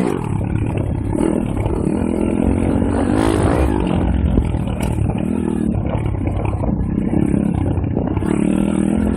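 Pit bike's small four-stroke single-cylinder engine revving up and down repeatedly as the bike is ridden.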